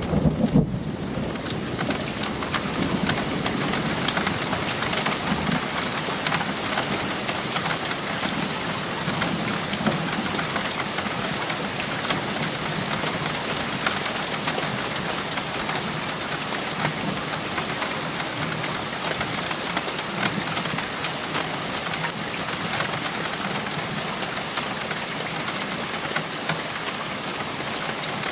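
Rain falling steadily in a thunderstorm, an even hiss of drops, with a low rumble of thunder dying away about a second in.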